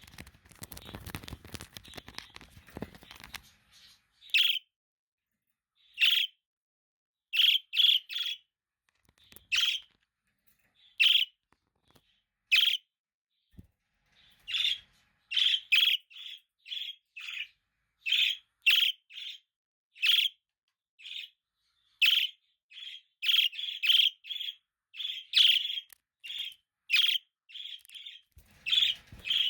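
Budgerigar giving short, repeated chirps, spaced out at first and coming faster, two or three a second, from about halfway through. A soft rustling noise fills the first few seconds before the chirps begin.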